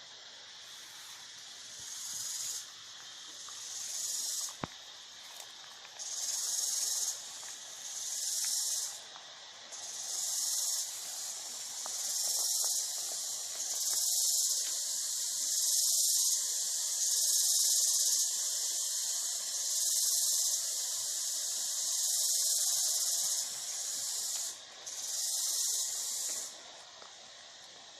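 A high-pitched hiss coming in repeated pulses of about a second each, every second or two, growing louder towards the middle and stopping shortly before the end.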